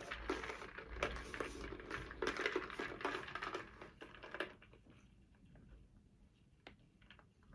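Water poured over ice in a cup, the ice crackling and clinking, for about four and a half seconds; after that only a few faint clicks.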